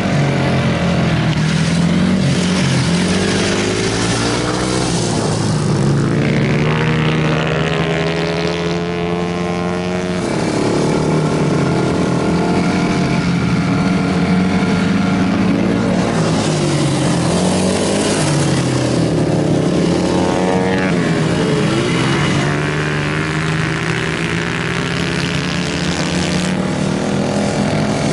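Several motorcycle engines racing, more than one heard at once, their pitch rising and falling as they rev and pass.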